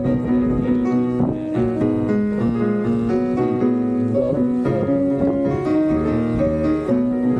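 A keyboard playing the song's melody and chords, one held note after another at a steady pace, with no singing.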